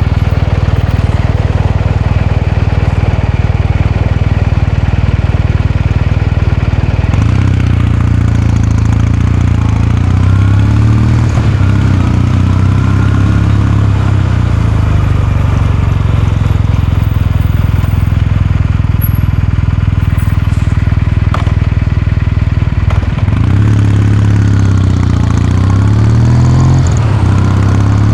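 Kawasaki Meguro K3's air-cooled 773 cc parallel-twin engine and exhaust running under way, steady at first. About a third of the way in, and again near the end, the engine note rises and falls as the rider works the throttle.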